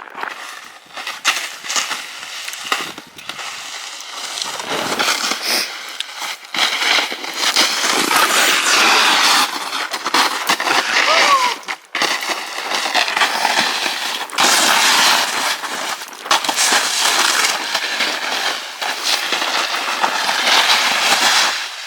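Footsteps crunching in packed snow, a steady run of crackling crunches with rustle.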